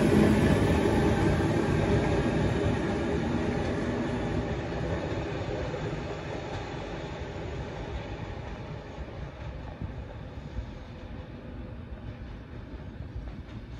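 A Class 73-hauled test train running away along the track, its rumble fading steadily into the distance.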